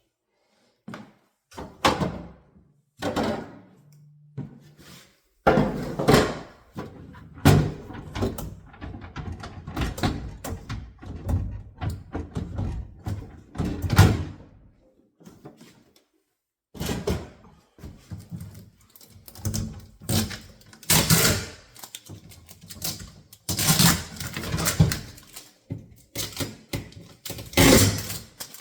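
Irregular knocks, thuds and scraping from handling a new refrigerator and its packaging, with short pauses between bursts of activity.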